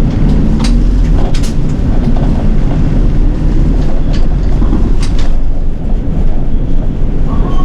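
City bus running along the road, heard inside the cabin: a steady, loud low rumble of engine and road noise, with a few sharp rattles or clicks.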